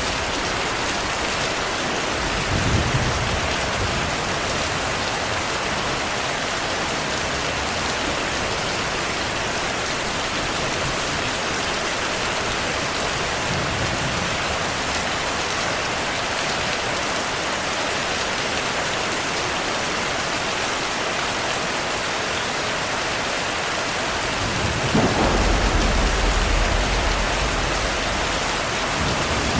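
Steady rainfall with rumbles of thunder: a short rumble about three seconds in, a faint one midway, and a longer, louder rumble near the end.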